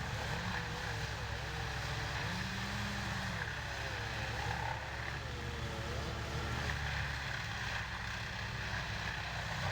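A large engine running steadily, its pitch wavering up and down a little.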